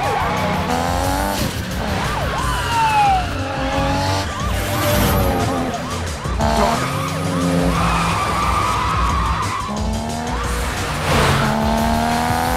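Car engines revving hard and accelerating through gear changes, the pitch climbing and dropping back repeatedly, with tyre squeals and a skid about 11 seconds in, mixed under a music score.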